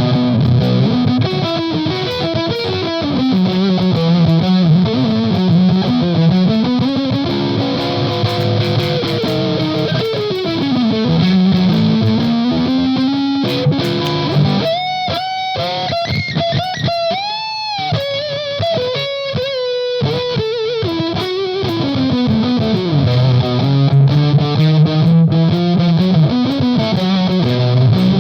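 Electric guitar played through an EarthQuaker Devices Palisades overdrive, boosted Gain B with the bandwidth control at 5, playing a blues shuffle in a heavy, fuzz-like distorted tone. A repeating low riff gives way about halfway to a lead phrase with string bends, then the riff returns.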